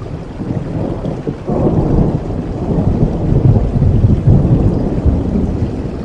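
Thunder rumbling over steady rain: the deep rumble swells suddenly about a second and a half in, stays loud for several seconds, and eases slightly near the end.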